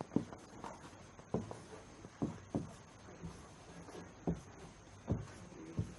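Light, irregular taps and knocks, about a dozen over the stretch, some louder than others, over a faint steady hiss.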